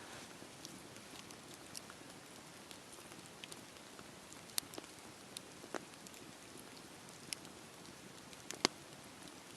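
Campfire crackling: a soft steady hiss with scattered sharp pops at irregular intervals, the loudest one near the end.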